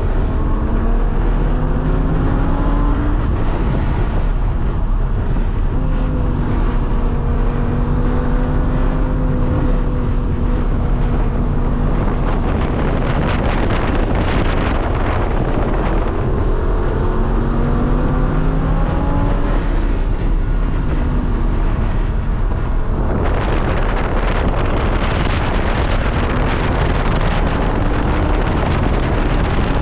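Lamborghini Huracán's V10 engine pulling hard on track, its pitch climbing through the revs several times with steadier stretches between. About three quarters of the way through, a loud rushing noise comes in on top of the engine.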